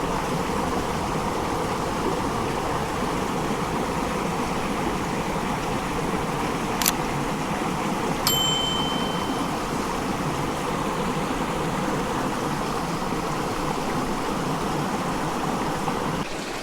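Running water of a creek rushing steadily. Two short sharp clicks come about seven and eight seconds in, the second followed by a brief high tone.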